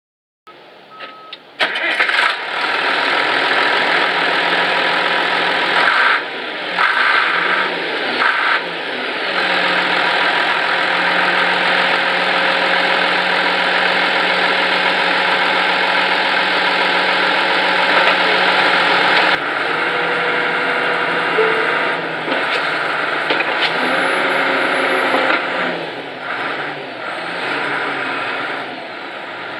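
The diesel engine of a 1980 Case 1150C crawler tractor starting up, then running loud and steady. Its sound dips and shifts a few times, around six to nine seconds in, at about nineteen seconds, and again near the end.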